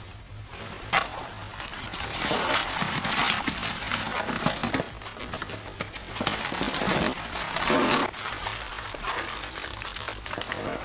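Irregular crunching and crinkling sounds in uneven bursts, with occasional sharp clicks.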